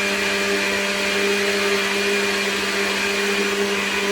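Countertop blender running steadily at one speed, blending coconut flesh with coconut water and water into coconut milk.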